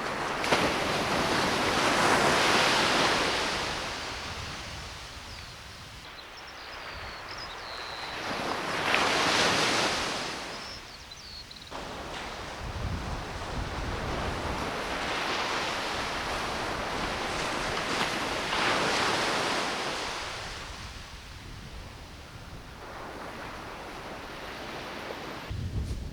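Waves breaking on a beach, a rushing wash that swells and fades in long surges every six to eight seconds, with some wind on the microphone.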